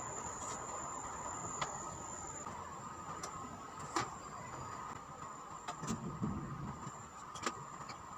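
Steady high-pitched insect chirring, with a handful of sharp, irregular knocks, the loudest about halfway through.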